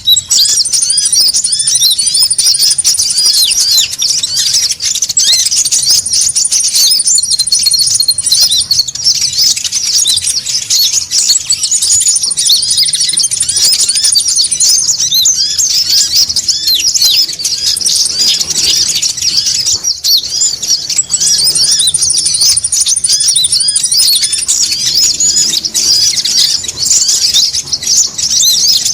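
A loud, busy chorus of konin sunbirds, as used for a bird-lure recording: a continuous mass of quick, high chirps and twitters. A thin, very high trill comes in every five or six seconds and lasts two to three seconds each time.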